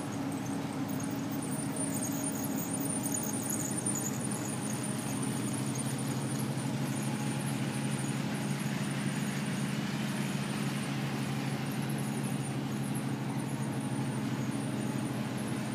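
Electric LEGO model trains running on their layout: a steady hum of small train motors with a faint high whine that comes and goes.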